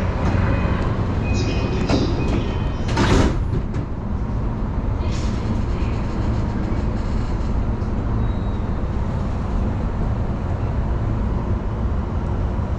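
JR Yokohama Line electric commuter train running on the line, heard from inside the car: a steady low rumble of wheels on rail. Several short clicks come in the first few seconds, and there is a brief louder rush about three seconds in.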